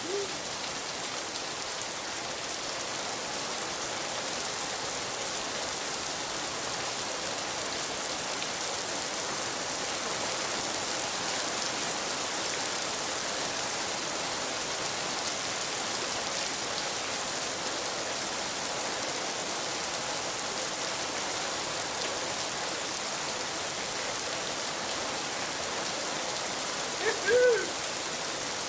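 Steady hiss of rain falling, with one short whoop from the rider near the end.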